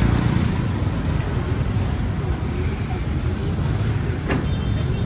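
Heavy diesel earthmoving machinery running with a steady low engine rumble. A brief hiss comes near the start, and a short knock about four seconds in.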